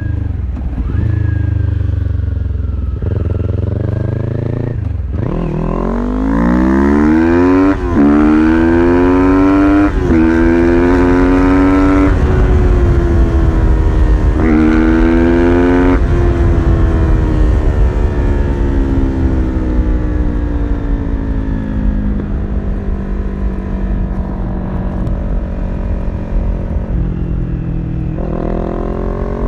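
Kawasaki Ninja 400 parallel-twin with an aftermarket full exhaust system, accelerating hard through the gears. The engine note rises in repeated sweeps, with quick drops at each upshift, then falls away in one long slide as the bike slows. It settles into a low steady running note and rises once more near the end, over a rush of wind noise.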